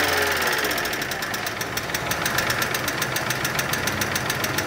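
Volkswagen Polo 1.6 four-cylinder petrol engine idling with a fast, even metallic ticking from the valve train. This is the lifter (tappet) noise the customer complained of, which the mechanic traces to the hydraulic lifters.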